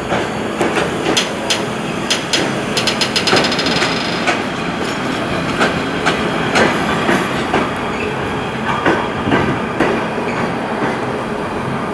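A train running through a station, its wheels clattering over rail joints and points. There is a quick run of clicks about three seconds in.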